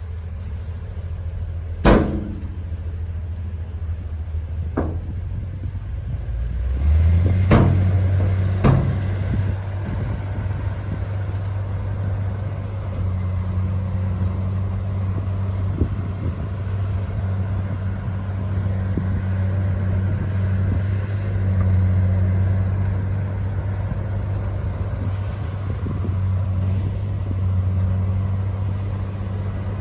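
Komatsu crawler bulldozer's diesel engine running with a steady low drone, getting louder about seven seconds in as it takes load. A few sharp knocks come over it in the first nine seconds.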